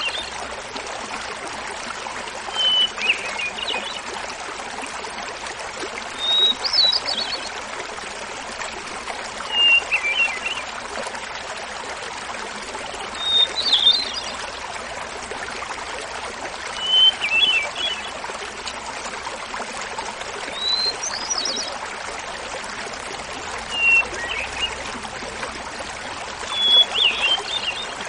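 Hermit thrush singing: eight flute-like phrases about every three and a half seconds, each a held opening whistle followed by a quick tumbling cluster of notes, set at alternating higher and lower pitches. Under it, the steady rush of a small mountain waterfall.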